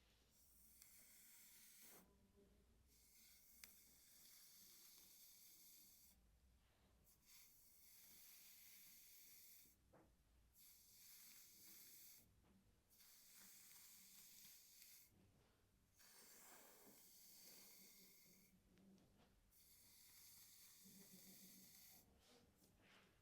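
Hairbrush drawn through hair close to the microphone: a series of long, soft hissing strokes, each two to four seconds long, with short pauses between them.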